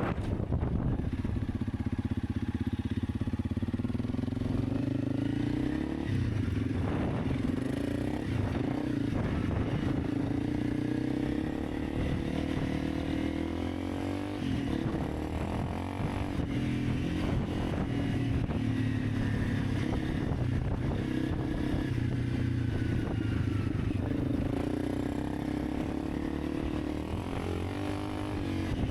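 Honda CRF300 Rally's single-cylinder engine running under way, its note dropping and climbing again a few times as the throttle and gears change.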